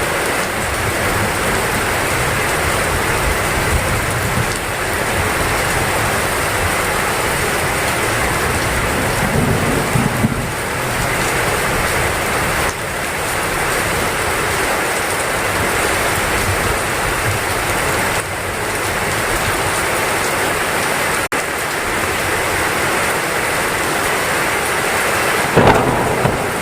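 Heavy rain falling steadily, with low rumbles of thunder underneath, swelling about ten seconds in, and a short louder burst near the end.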